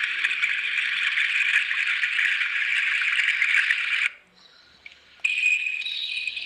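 Loud, dense rasping insect buzz that cuts off suddenly about four seconds in. After a brief gap, a steady high-pitched insect trill begins.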